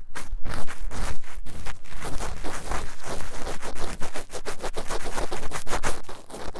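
Fast, vigorous ear-cleaning scratching on the silicone ear of a 3Dio binaural microphone: rapid, repeated scratchy strokes, several a second.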